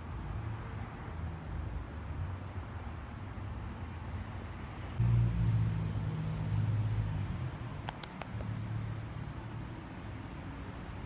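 Low, steady rumble of a Boeing 787-9 Dreamliner's jet engines as it departs, swelling about five seconds in and then easing.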